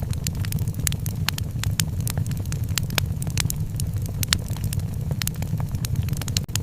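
Wood fire burning in a fireplace: frequent sharp crackles and pops, several a second, over a steady low rumble of the flames.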